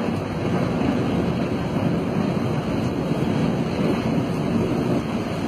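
Steady rushing roar of wind buffeting the microphone outdoors.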